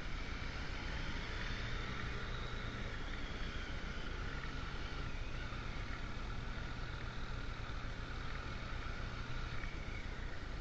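Motorcycle engine running steadily while riding, with a low steady hum and wind rushing over the microphone.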